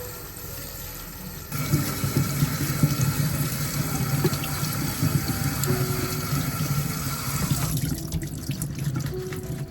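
Water from a tap running into a sink, turned on about one and a half seconds in and running steadily, its hiss thinning near the end.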